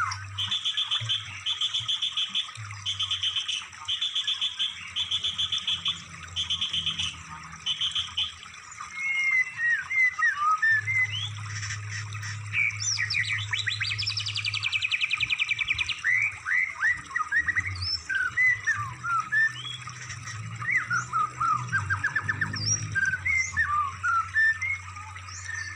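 Recorded songbird calls used as masteran tutoring material for cage birds. A short, high trilling phrase repeats about seven times, roughly a second apart. From about nine seconds in it turns into a fast run of varied chirps and whistled notes that sweep up and down in pitch.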